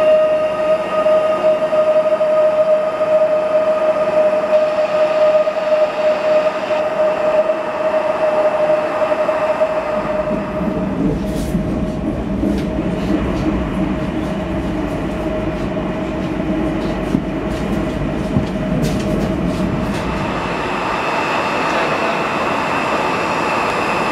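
Electric multiple unit train in an underground station: a steady electric whine while the train stands, giving way about ten seconds in to the low rumble of the train running, with scattered clicks. Near the end it settles into a steady hiss with a thin high whine.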